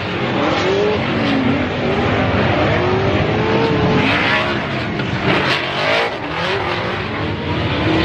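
Drift cars running on the track, their engines revving up and down in pitch over a steady haze of tyre and exhaust noise.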